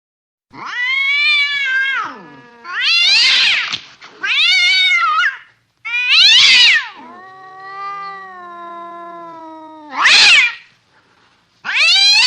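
Cat yowling, a string of loud, drawn-out wails that rise and fall, about seven calls, with one longer, lower, steadier wail in the middle.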